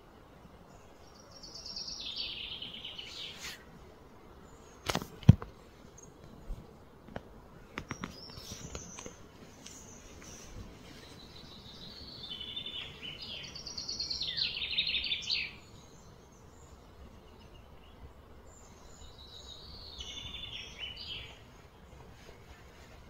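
Birds singing: three phrases of rapid, high trilled notes, with a sharp knock about five seconds in and a few fainter clicks soon after.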